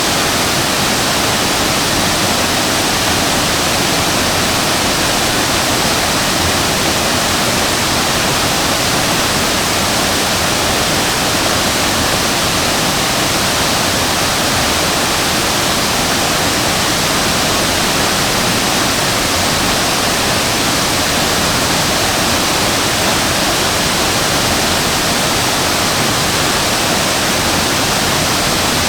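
Shasui Falls, a waterfall, with the steady, loud rush of falling water, even and unbroken, without a let-up.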